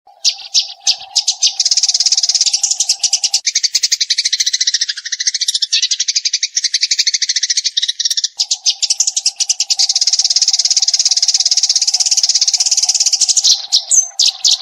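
Eurasian tree sparrows chirping in a fast, unbroken stream of high chirps, the rapid 'tembakan' chatter used as a masteran recording. The chatter stops abruptly at the end.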